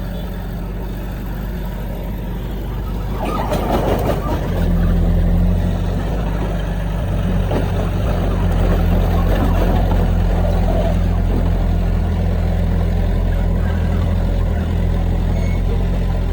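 Heavy diesel earthmoving machinery running steadily, with a louder, rougher stretch about three seconds in.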